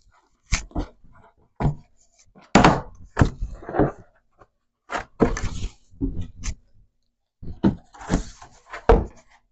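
Cardboard box of a wooden beehive kit being opened and its contents handled: a string of separate knocks and thuds with short scraping and rustling between them.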